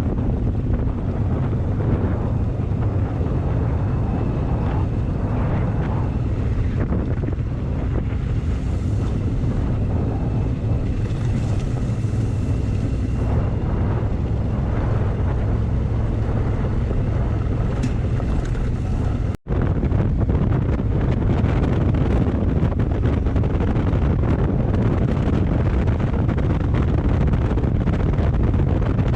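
Motorcycle engine running steadily while riding, with heavy wind buffeting on the microphone. The sound breaks off for an instant about two-thirds of the way through and carries on the same.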